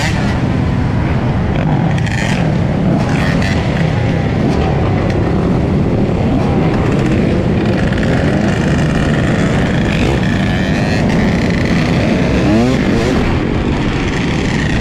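Motorcycle engine running amid steady road and traffic noise, with its pitch sweeping up and down a few times in the last few seconds.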